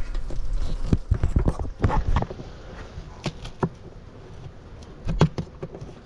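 Knocks, cracks and scrapes of a beehive lid being worked loose from the comb built onto it, busiest in the first two seconds, then a few separate sharp clicks.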